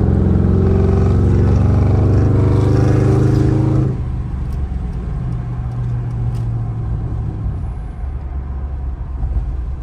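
Mercury Grand Marquis V8 heard from inside the cabin, running loud under heavy throttle with a steady deep exhaust note, then the throttle lifts suddenly about four seconds in and it drops to a quieter cruising rumble with road noise.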